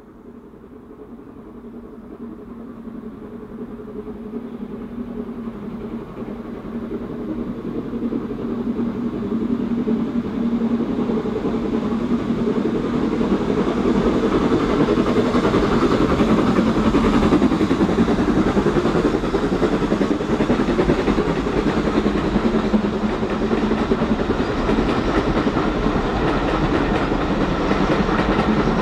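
A passenger train approaching along the line, growing steadily louder for about fourteen seconds and then staying loud as it comes close.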